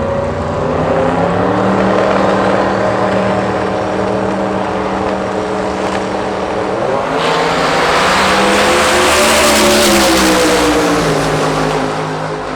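Drag racing car's engine, a 1979 Chevrolet Malibu, held at high, steady revs at the strip. About seven seconds in it revs harder with a loud rushing hiss of tyre and exhaust noise, its pitch rising and then falling away as the car goes down the track.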